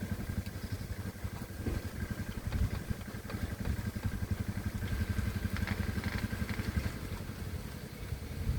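Engine of a walk-behind hand tractor running steadily as it plows a rice paddy, with a rapid low chugging.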